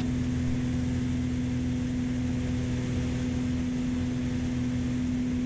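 Beechcraft Baron B55's twin piston engines and propellers droning steadily in flight, one constant hum that holds the same pitch throughout.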